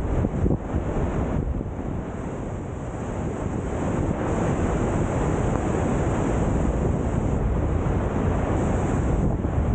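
Cauldron Snout waterfall on the River Tees, white water rushing steadily down the rock cascade, with wind buffeting the microphone. It dips slightly in loudness a couple of seconds in, then holds steady.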